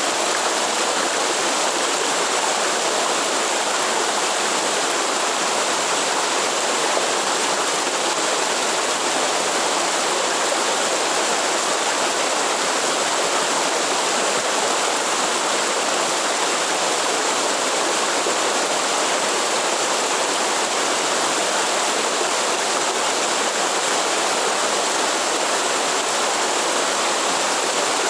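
Waterfall in the Atlantic Forest: water falling and rushing in a steady, unbroken hiss with no pauses or changes.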